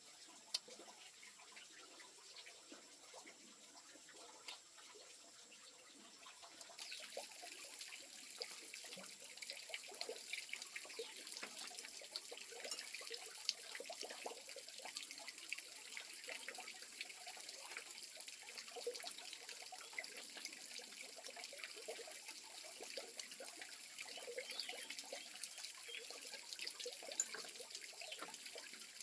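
Water trickling and splashing, with many small clicks and knocks; it grows louder about seven seconds in.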